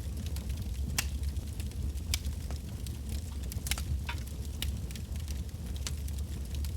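Wood fire burning with a steady low rumble and irregular sharp crackles and pops, about one or two a second.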